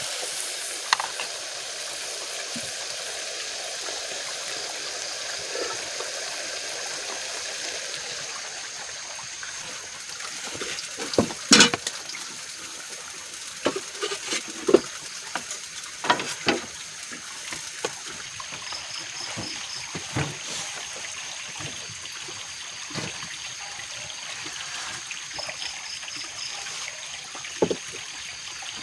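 Steady trickle of running water, with scattered knocks and clicks a little over a third of the way in and once near the end.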